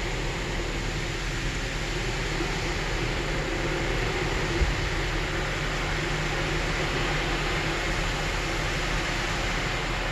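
Automatic car wash running, heard from inside the car: a steady hiss of water spray and machinery on the bodywork, with one short knock about halfway through.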